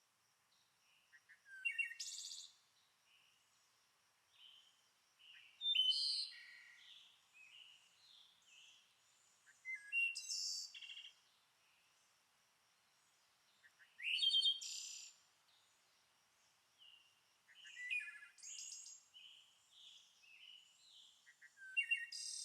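A songbird singing a short, complex chirping phrase, repeated about every four seconds.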